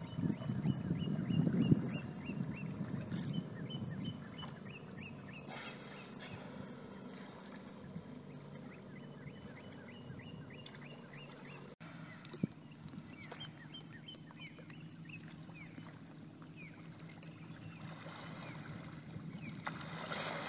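A bird calls over and over in quick runs of short falling chirps, over a low rumble that is loudest in the first two seconds. Near the end, a manatee splashes at the surface of the water.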